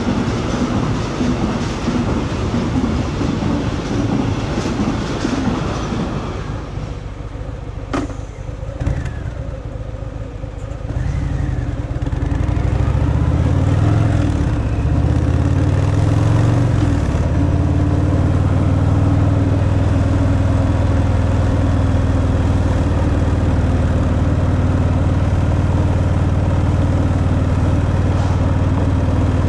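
Harley-Davidson Fat Boy's V-twin on its stock exhaust, first under a rush of wind and road noise while riding. It drops quieter for a few seconds with a single click, then the engine note rises and falls with the throttle before settling into a steady, deep running note.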